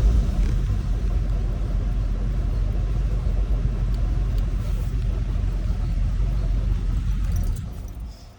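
Flathead car engine running at a steady, rumbling idle just after a hot start, then switched off, dying away near the end.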